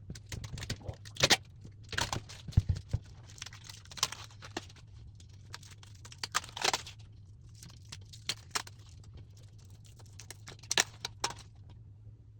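Irregular clicks, knocks and rustling of plastic and packaging as a new fridge freezer's shelves and fittings are handled, over a low steady hum.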